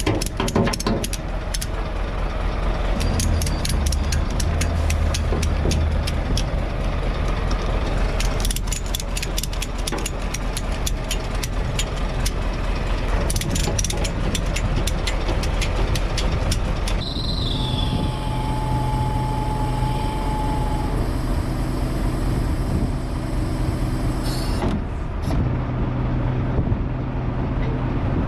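Ratchet straps being cranked tight to hold a car down on a transporter deck, with rapid runs of ratchet clicks through the first half, over the low running of the truck's engine. About seventeen seconds in, the clicking stops and a steady machine hum takes over, with a brief high tone.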